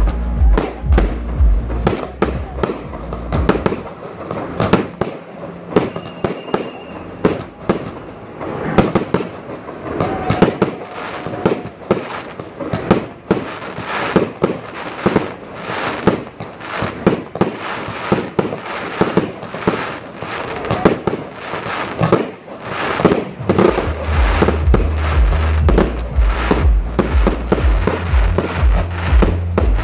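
Fireworks display: a dense run of shells bursting, with rapid bangs and crackling going on without a break.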